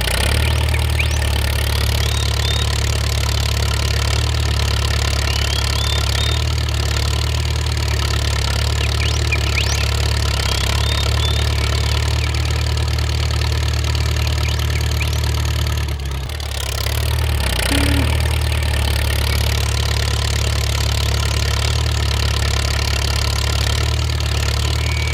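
An engine running steadily at idle, a constant low hum that dips briefly about two-thirds of the way through and then picks up again.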